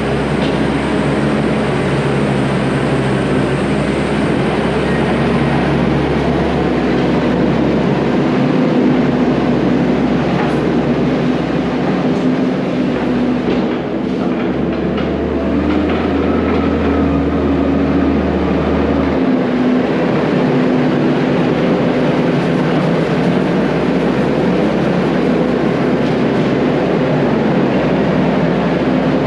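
Diesel engine of heavy earthmoving equipment running steadily under load, with a constant low drone and a steady hum, while the machine works a wet, rolled rock floor.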